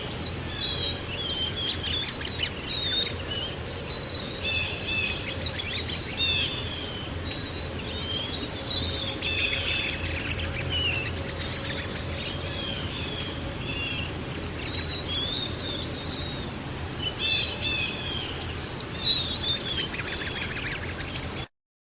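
A chorus of many small birds chirping at once over a steady low background noise, cutting off suddenly near the end.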